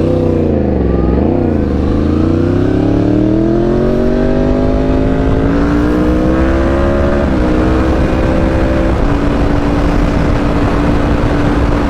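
McLaren supercar engine accelerating hard, its pitch climbing steadily for several seconds after a couple of quick throttle blips. The pitch then drops at an upshift about seven seconds in, steps down again about two seconds later, and holds steady.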